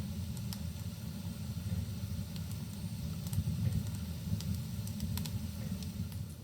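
Wood fire burning in a fireplace: a steady low rumble with a few sharp crackles from the burning logs.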